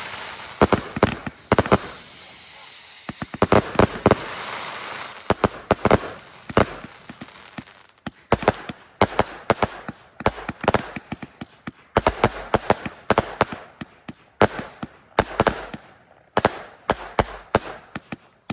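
Fireworks going off in a display: many sharp bangs and reports in quick clusters, with a high whistle falling slightly in pitch during the first few seconds.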